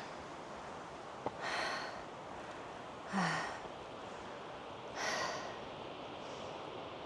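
A hiker breathing hard, winded from a steep uphill climb: three deep breaths about two seconds apart over a steady low hiss, with a small click just before the first.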